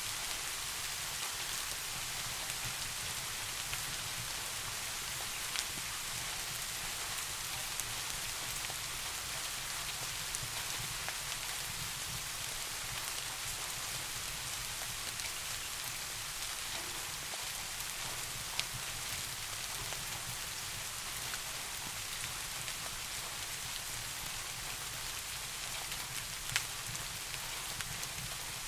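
Steady rain falling in an even hiss, with a few isolated sharp ticks.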